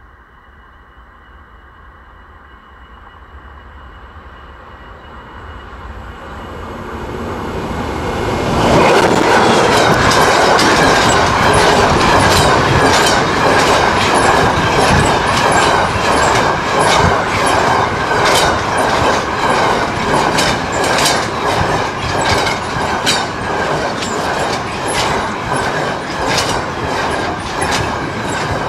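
A train approaches and passes close by. Its rumble grows steadily for about eight seconds, then the cars roll past with a continuous rapid clatter of wheel clicks over the rail joints.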